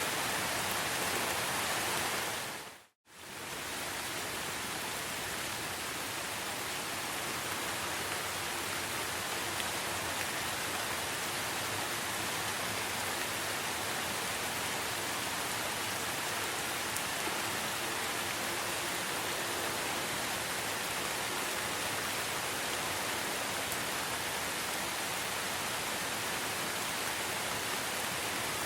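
Steady rain falling, an even hiss of drops. About three seconds in it fades briefly to silence and straight back in, as at the seam of a looped recording.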